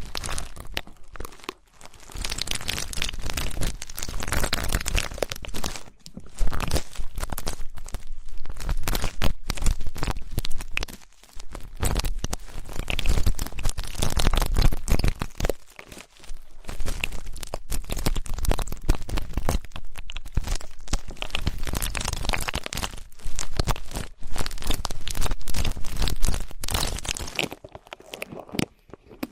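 Ear pick scraping and rubbing in an ear for ear-cleaning ASMR: close, crunchy, scratchy sounds in stretches of a few seconds with brief pauses between them.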